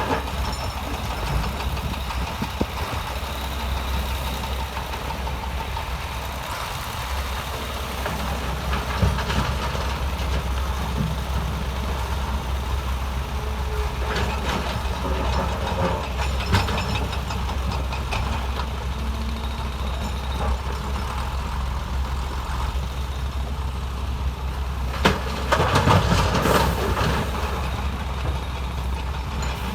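Diesel engines of heavy earthmoving machinery running steadily, with scattered clanks and knocks of steel and stone. A louder burst of clatter comes near the end.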